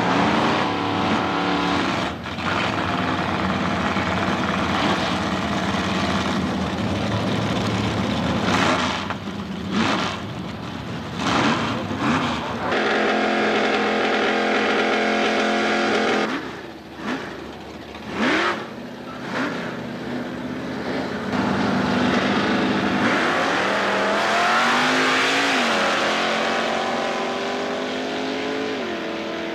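Two drag-racing cars' engines running at the starting line, blipping the throttle in several sharp revs, then launching together with the engine pitch climbing, dropping once at a gear change and climbing again as they pull away down the strip.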